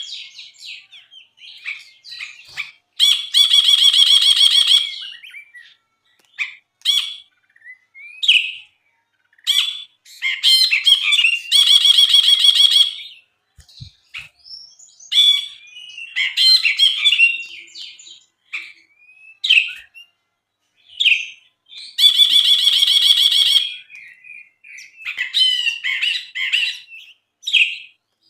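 A brinji, a bulbul, singing in full song: short chirps and whistled notes, broken up by three longer, loud rattling phrases of about two seconds each.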